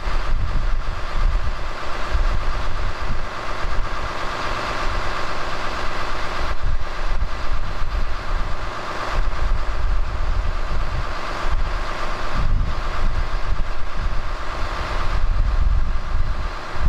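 Cummins 6.7-litre turbo-diesel in a Ram 5500 idling cold after a 0°F start on the preheat cycle alone, a steady diesel clatter.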